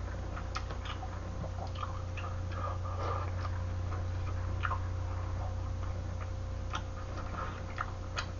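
Close-up eating sounds: a person chewing chewy tteokbokki, with scattered light clicks of wooden chopsticks against a metal saucepan, over a steady low electrical hum.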